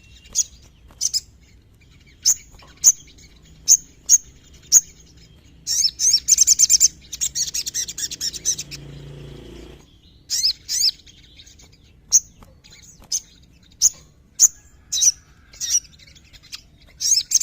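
Sogon (sogok ontong), a small sunbird, singing: a string of short, sharp, high chirps, with a fast rattling trill about six seconds in, then more single chirps.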